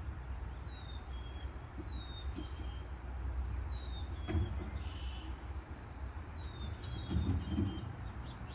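A bird repeatedly gives a short two-note call, a high note stepping down to a lower one, about once every second or so, over a steady low rumble. There is a soft knock about halfway through.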